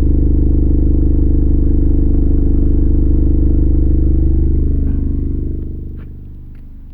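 8-inch CT Sounds Meso car subwoofer in a box tuned to 34 Hz, playing a loud, sustained low bass note that buzzes with overtones. The note dies away about five and a half seconds in.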